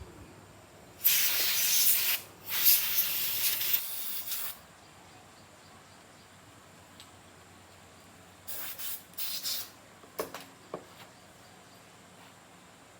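Pressurised spray hissing in two long bursts early on, then a few short bursts followed by two sharp clicks.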